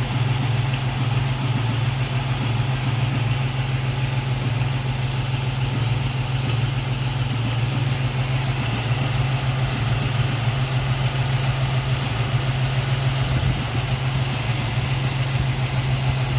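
Ford 302 V8 in a 1962 Ford Falcon idling steadily at operating temperature, its fuel no longer boiling now that a return-line bypass is fitted.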